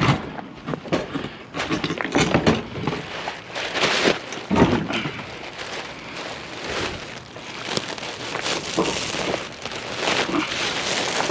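Irregular knocks and clatter of metal scrap being handled and moved.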